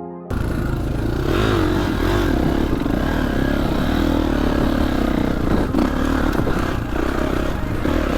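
Dirt bike engine running on a trail ride, revs rising and falling, with wind and rattling from the bike. It cuts in suddenly a moment after the start, replacing music.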